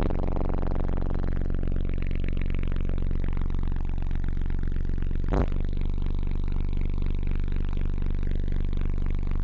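A steady, very low bass test tone, around 20 Hz, played through four Digital Designs 500-series 15-inch subwoofers in a truck cab, with a buzzing stack of overtones above it. There is one brief click about five seconds in.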